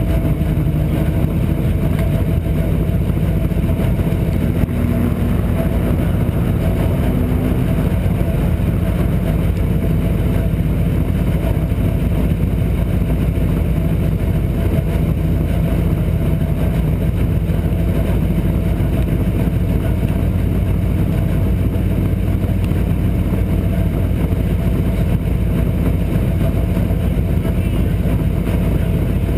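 Race car engines idling steadily, lined up and waiting at the start.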